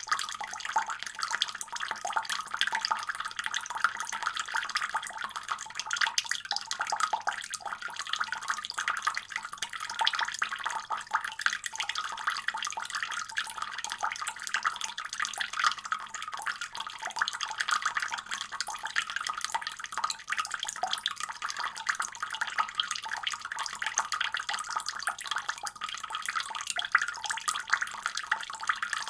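Water running steadily from a faucet, an even splashing stream with no pauses.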